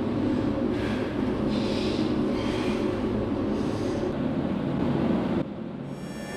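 Steady low rumble of a running vehicle, with a brighter hiss coming back roughly once a second. It cuts off suddenly near the end, leaving a quieter hum.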